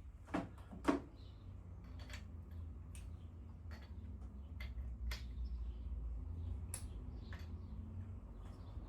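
Scattered light clicks and taps of hand tools being handled during engine work: two louder knocks near the start, then single clicks about once a second, over a steady low hum.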